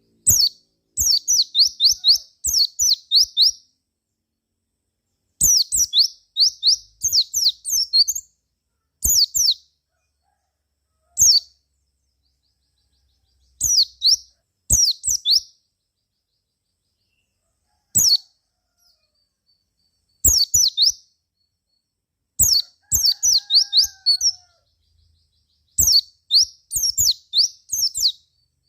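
A white-eye (pleci) singing in short bursts of quick, high, downward-sweeping chirps, with gaps of a second or two between the phrases.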